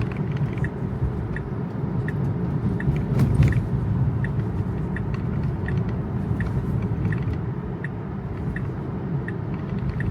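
Inside a Tesla's cabin: steady road and tyre rumble on wet pavement, with the turn-signal indicator ticking evenly about every 0.7 seconds.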